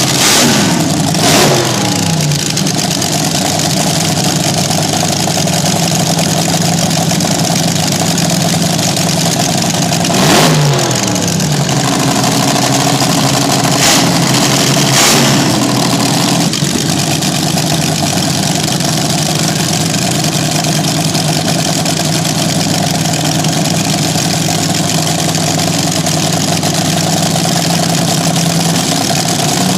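Slingshot dragster engine running loud at idle, blipped to sharp revs that drop back to idle: once right at the start, again about ten seconds in, and twice more a few seconds later.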